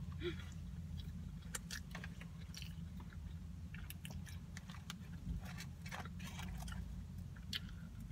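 Close-miked chewing of a mouthful of pretzel-bun bacon burger: short, wet mouth clicks and smacks at irregular intervals, over a steady low hum.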